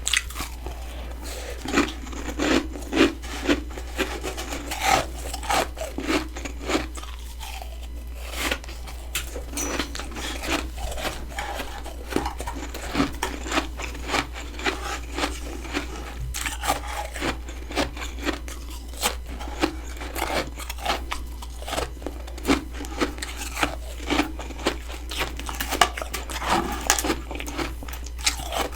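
Close-up biting and chewing of freezer frost: a continuous run of crisp crunches, several a second, as the packed frost ice is bitten and chewed.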